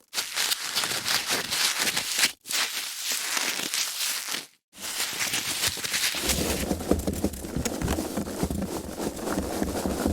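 Foam packaging being handled: dense crackling and rubbing, with sharp breaks about two and a half and four and a half seconds in, between separate takes. From about six seconds a low rumble runs under the crackle.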